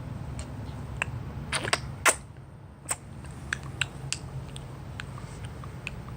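A dozen or so light, irregular clicks and taps, the loudest about two seconds in, over a low steady hum.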